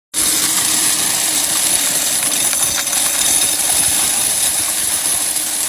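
Coin counting machine running, with the steady clatter of many coins rattling through it.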